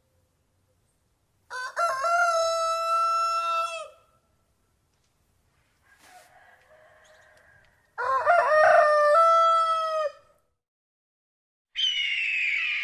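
Rooster crowing twice, each crow a long held call of about two seconds, followed near the end by a shorter, harsher call.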